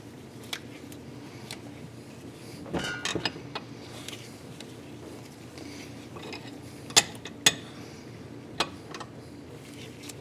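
Small metal tools and parts clinking while bolts and thread chasers are handled: a short rattle of clicks about three seconds in, then two sharp clicks around seven seconds and one more shortly after, over a low steady background hum.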